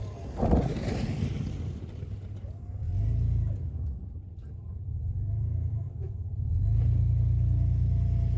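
Plow truck's engine running with a low rumble that swells twice as it is given throttle, with a single knock about half a second in.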